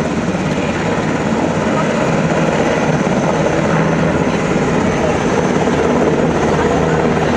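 Helicopter running loud and steady, its rotor beating rapidly.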